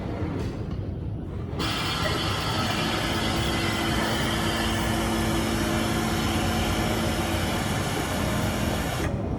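Industrial automatic overlock sewing machine running at steady speed, starting about one and a half seconds in and stopping suddenly near the end, over a low steady hum.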